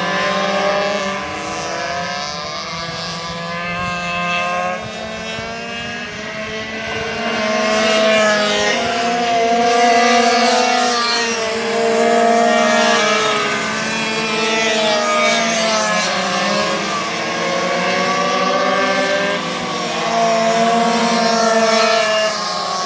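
Several racing minibikes' small two-stroke engines on the track, their pitches rising and falling as they rev through the corners and straights. The engines swell louder as the bikes pass closer a third of the way in and again near the end.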